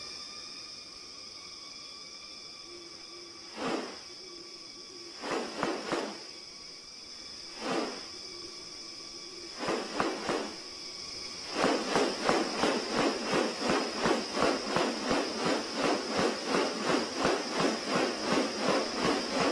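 Rainforest sound: a steady high-pitched insect drone, broken by a few short harsh calls. About halfway through, a fast, even run of harsh rasping pulses begins, about three a second, and this is the loudest thing in the clip.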